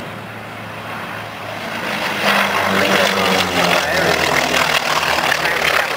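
Radial piston engine of a T-28 Fennec warbird droning in flight, growing clearly louder about two seconds in as the aircraft comes closer.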